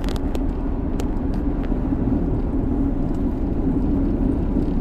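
Steady drone of a car in motion, engine and road noise together, with a few sharp clicks in the first two seconds.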